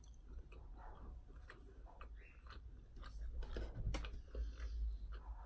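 A person chewing a bite of fried chicken nugget with small wet mouth clicks, faint at first and a little louder in the second half.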